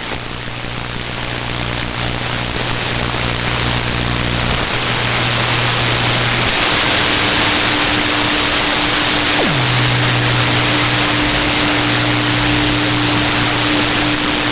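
CB radio receiver hiss and static between transmissions, growing louder over the first few seconds, with a few steady low tones running under it. About nine and a half seconds in, one tone slides quickly down in pitch.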